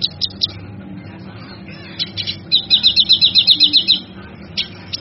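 Cucak kinoi singing: scattered sharp chips, then a fast trill of about ten notes a second lasting over a second, the loudest part, with more chips near the end. A steady low hum runs underneath.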